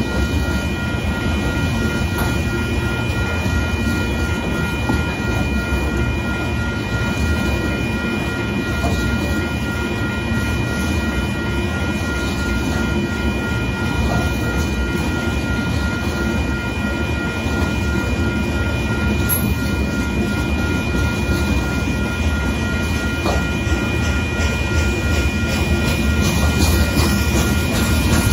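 Union Pacific gravel hopper cars of a freight train rolling past at a grade crossing: a steady heavy rumble with wheel clatter. A railroad-crossing bell rings evenly over it.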